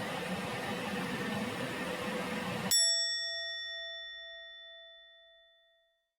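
A microwave oven's steady running hum stops, and a single bell-like ding rings out once and fades slowly over about three seconds.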